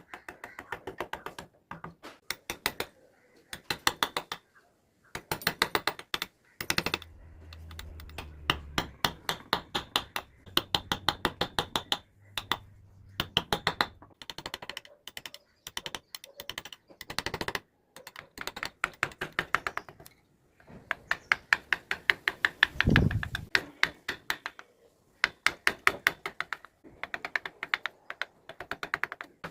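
Mallet rapidly tapping a carving chisel into wood, several quick strikes a second in runs of a few seconds with short pauses between. A dull low thud comes about two-thirds of the way through.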